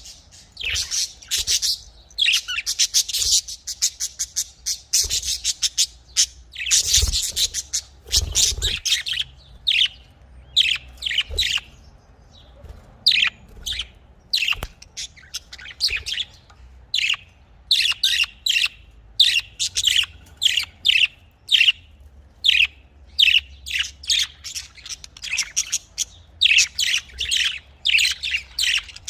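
Budgerigars chirping and chattering in a steady stream of short, high chirps, with a brief lull about twelve seconds in.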